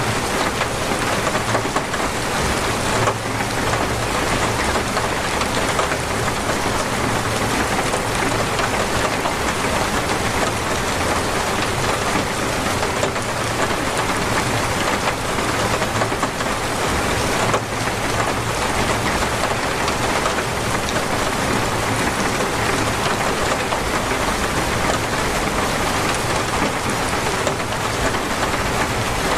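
Torrential rain pouring down steadily in a dense, even hiss.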